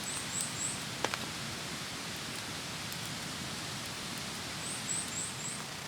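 Steady hiss of light rain, with a single click about a second in. Faint high chirps come in short runs, three near the start and four near the end.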